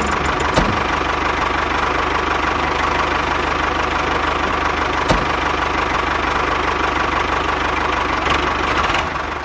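An engine running steadily at idle, with a fast even pulsing and a couple of single clicks; it fades away near the end.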